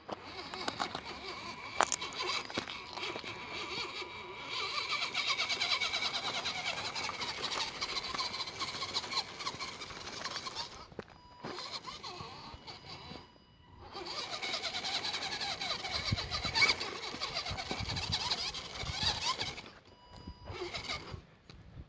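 Whine of a radio-controlled rock crawler's electric motor and gears, rising and falling with the throttle as it climbs over rock, in two long runs with a break about eleven seconds in and another near the end.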